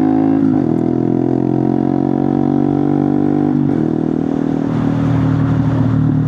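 Honda Monkey 125's single-cylinder engine through a Scorpion titanium exhaust with the baffle out, under way and pulling through the gears. Its note climbs and drops twice, about half a second in and about three and a half seconds in, then settles into a steadier, lower note.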